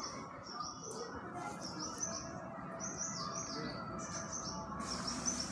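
Bird chirping: short runs of quick, high notes that repeat about once a second, over a steady low background noise.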